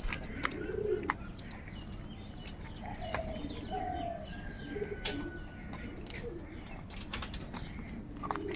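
A flock of birds calling, mostly low, repeated cooing notes of the kind pigeons make, mixed with short higher calls and scattered sharp clicks, over a steady background rumble.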